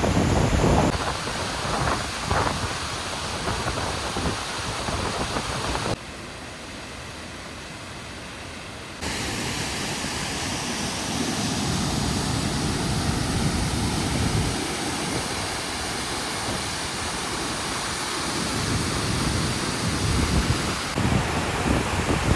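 Waterfall rushing, a steady roar of falling water with gusty low rumbles of wind on the microphone. The sound changes abruptly several times, with a quieter stretch of water noise from about six to nine seconds in.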